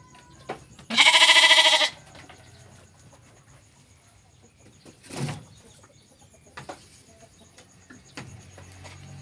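A sheep bleats once, loudly, a wavering call lasting about a second. About four seconds later comes a short, fainter sound that falls in pitch, with faint clicks and knocks around it.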